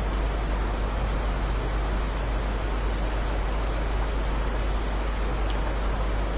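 Steady rain: an even, unbroken hiss with a low rumble underneath and no separate drops standing out.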